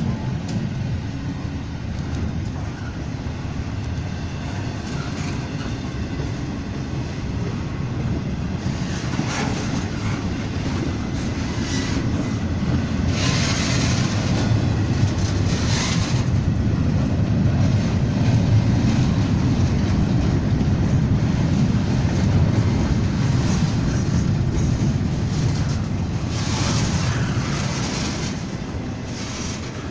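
A train rolling past: a steady low rumble of wheels on rail that builds to its loudest about two-thirds of the way through and then eases off, with a few short, brighter rattles.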